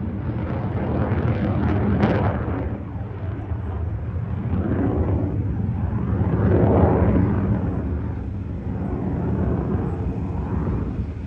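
Aircraft flying over an airshow: a loud, continuous low engine rumble that swells to a peak about two-thirds of the way through.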